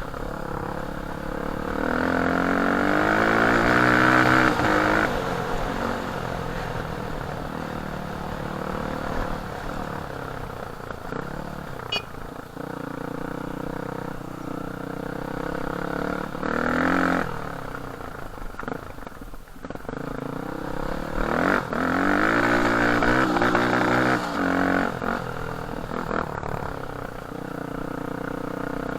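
Enduro dirt bike's engine running as it is ridden, revving up with a rising pitch about two seconds in and again about twenty-one seconds in, and easing off between.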